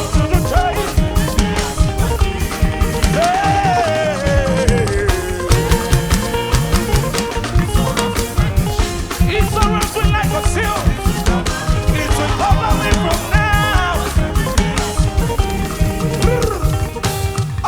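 Live band playing fast, upbeat gospel praise music, with a steady drum-kit beat and a singing voice over it.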